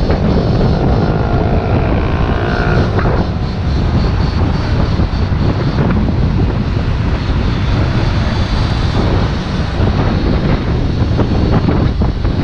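Heavy wind buffeting on the microphone of a rider on a moving electric dirt bike. About a second in, a whine rises in pitch for a couple of seconds.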